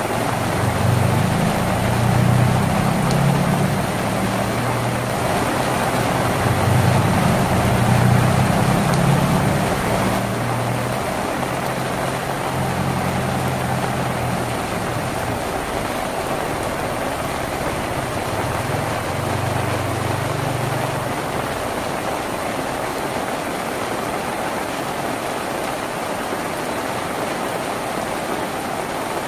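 Steady rain drumming on a tin roof. A low rumble sits under it for the first third or so and returns briefly about two-thirds of the way through.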